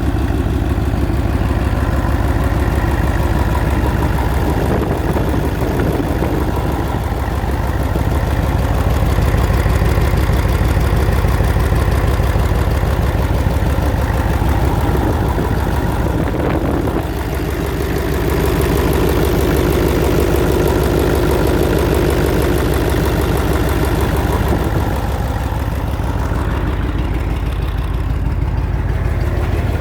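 Mercedes-Benz OM422 V8 diesel with a mechanical injection pump, running steadily at idle out of its vehicle.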